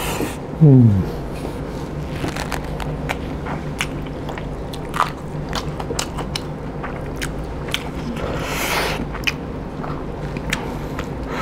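Close-up mouth sounds of a man chewing a mouthful of pork curry and rice: wet smacking and crisp crunching clicks all through. About half a second in, a short hum falls in pitch.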